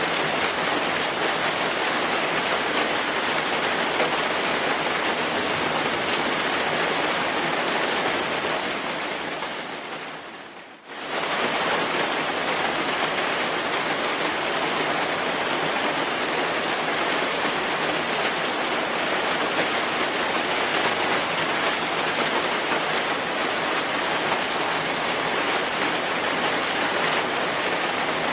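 Steady rainfall, an even hiss of many drops. About ten seconds in it fades down briefly and then cuts back in abruptly at full level.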